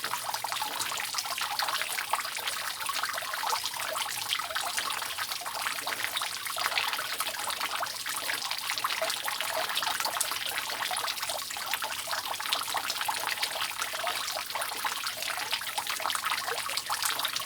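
Water dripping and trickling steadily off a roof: a dense, even patter of many small drops.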